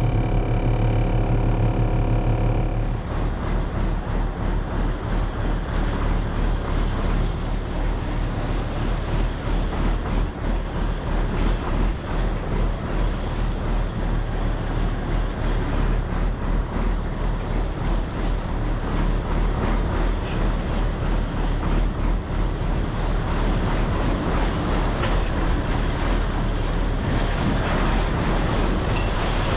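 A farm vehicle's engine running steadily, then from about three seconds in driving along with a dense rumble and heavy wind buffeting on the microphone.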